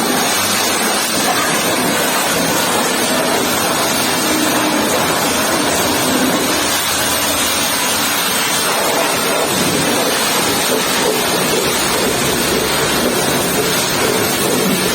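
High-pressure washer spraying water onto a truck: a steady loud hiss of the jet with water splattering and running off.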